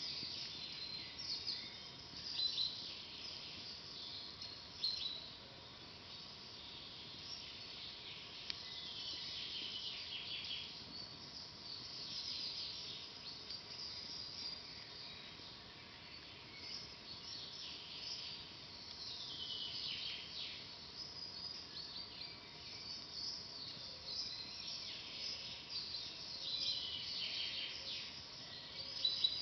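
Forest birds chirping and trilling continuously, with a few sharp pops from a crackling campfire in the first ten seconds.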